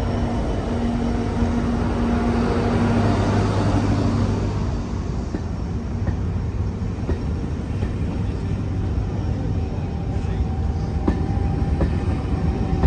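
A GB Railfreight Class 66 diesel locomotive passes under power, its engine note fading after about four seconds into the rumble of passenger coaches rolling past. A few sharp wheel clicks come later, and a faint steady squeal near the end.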